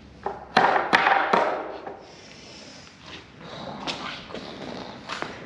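Wooden 2x4 roof trusses being assembled: three loud, sharp knocks close together about a second in, then lighter knocks and clatter of the boards.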